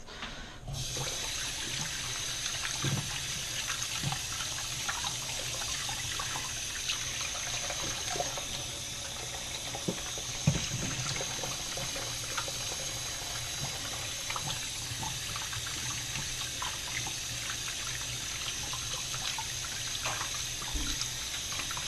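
Kitchen tap running into the sink as hands are washed under it: a steady rush of water that starts about a second in, with small knocks and splashes now and then and one louder knock about halfway.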